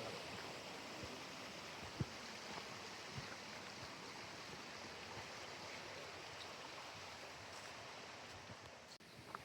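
Steady rush of a small stream's running water, with a few faint clicks, one sharper than the rest about two seconds in.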